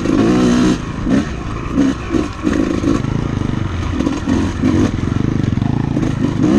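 Honda CR250 two-stroke dirt bike engine running under way, its pitch rising and falling as the throttle is worked.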